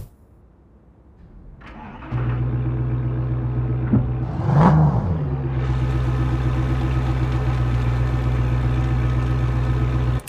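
Muscle car engine starting: it cranks briefly and catches about two seconds in, gives one quick rev a couple of seconds later, then settles into a steady idle that cuts off suddenly near the end.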